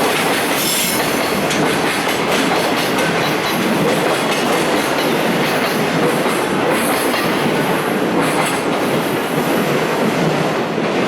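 Container wagons of a freight train rolling past, wheels clattering over the rails in a steady rumble, with a few brief high squeals from the wheels.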